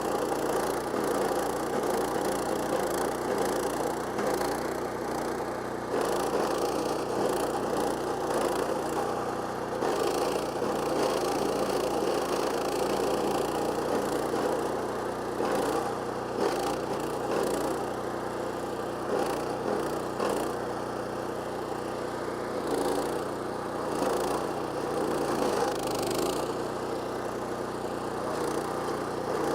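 The Kohler Command PRO CH440 14 HP single-cylinder engine of a stump grinder runs steadily as the carbide-toothed cutting wheel grinds into a wood stump, with irregular crackling of wood chips over the engine.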